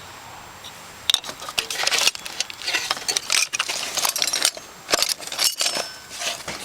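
Irregular clinks and rattles of small hard objects being handled, with quick sharp ticks spread unevenly through.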